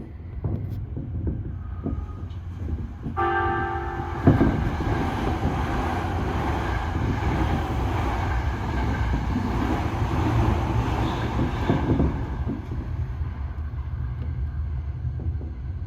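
A train horn sounds one steady, multi-toned blast for about a second, answering between two trains. Right after it, an oncoming train passes close by with a loud rush of wheel and air noise for about eight seconds, which fades out, over the steady low rumble of the train.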